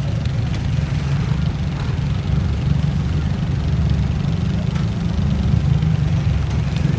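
Pulling tractor's engine running with a heavy, steady low rumble.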